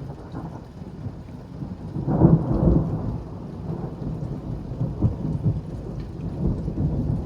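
Thunder rumbling over steady rain, swelling to its loudest about two seconds in and rolling on unevenly afterward.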